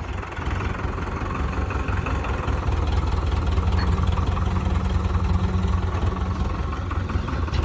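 Diesel engine of a Powertrac Euro 55 Next 4WD tractor running steadily with a low rumble.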